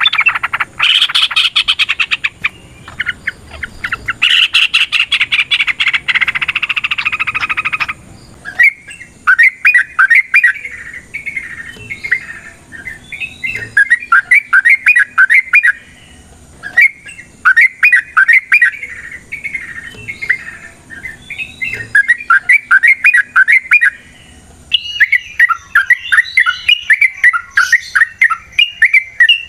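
Yellow-vented bulbul (trucukan) singing: a dense, fast chattering rattle for the first several seconds, then repeated short bubbly phrases with brief pauses, running almost without a break near the end.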